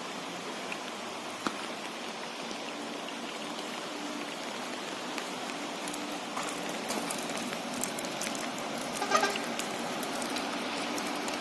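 Steady heavy rain falling, with scattered drops pattering on a surface close by. A short, louder sound breaks through about nine seconds in.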